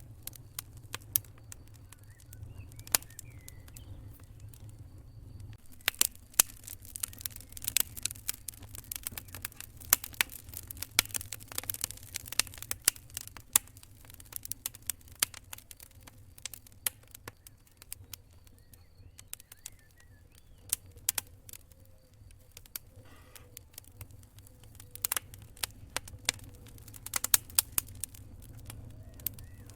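Campfire wood burning and crackling, with irregular sharp pops over a steady low rumble of the flames. The popping is thickest for several seconds in the middle and again near the end.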